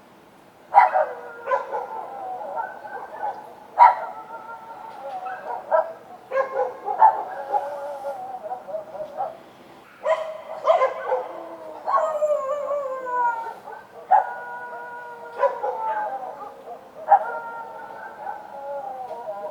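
Street dogs barking and howling. Each call starts sharply and is drawn out into a long cry that falls in pitch, one every second or two, with calls overlapping at times.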